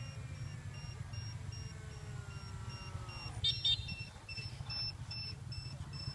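A steady low motor rumble under a whine that falls slowly in pitch and drops away about three seconds in, followed by two short high beeps.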